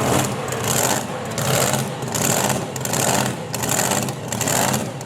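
A pulling truck's engine running, with a loud hiss surging and fading in an even rhythm about every three quarters of a second.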